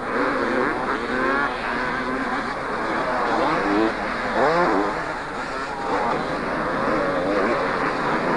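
Several two-stroke motocross motorcycles racing, their engines revving up and down with the pitch rising and falling as the bikes accelerate and shift.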